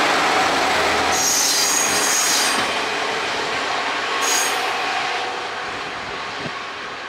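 Two-car KiHa 37 and KiHa 30 diesel railcar train pulling away and running off down the line, its noise fading. Its wheels squeal high-pitched twice: for about a second and a half starting about a second in, and briefly about four seconds in.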